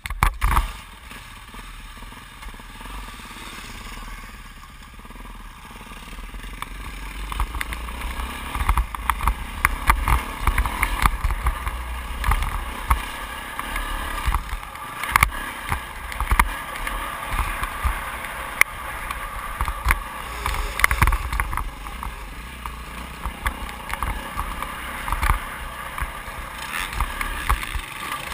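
A 2008 Yamaha YZ450F's four-stroke single-cylinder engine running as the motocross bike is ridden round the track, heard from an onboard camera. It is quieter for the first several seconds, then louder from about seven seconds in, surging up and down, with many short knocks and a constant low rumble.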